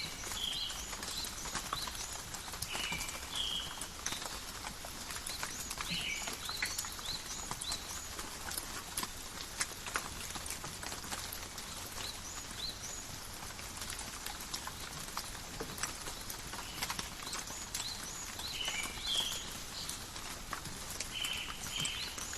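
Steady light rain in a forest, with many separate drops ticking and dripping close by. Short high chirps come in small groups a few times.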